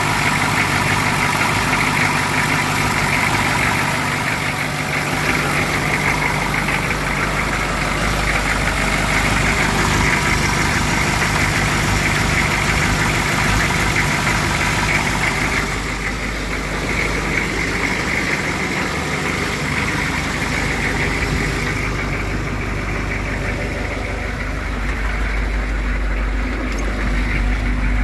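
A 1983 M1008 Army truck's 6.2-litre non-turbo diesel V8 idling steadily, just after a hard cold start.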